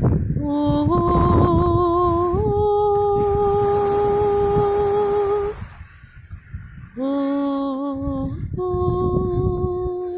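A woman's voice humming or toning long sustained notes, each held for a few seconds before stepping to another pitch, with a slight waver. There is a pause of about a second and a half past the middle, and a steady low rumble underneath.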